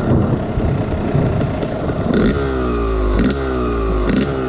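Two-stroke dirt bike engine revving in repeated bursts, the pitch sliding down after each blip of the throttle, with short sharp snaps at each burst.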